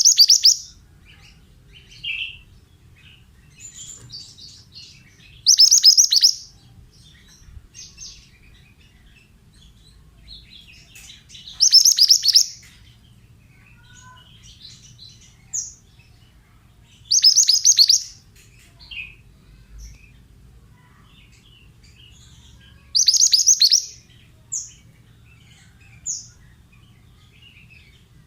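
Mantenan songbird singing a short, bright, high-pitched phrase about every six seconds, five times, with softer single chirps between the phrases.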